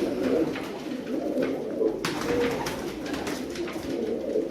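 Many domestic pigeons cooing together in an enclosed loft, with a few short rustling or clicking sounds about two seconds in.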